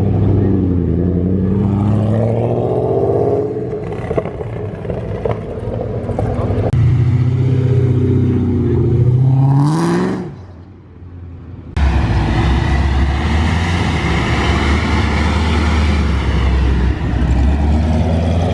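Performance car engines accelerating away from a standstill, their exhaust note climbing in pitch twice, the second car sweeping past about 10 seconds in. About 12 seconds in the sound cuts abruptly to another car's engine running loud and steady.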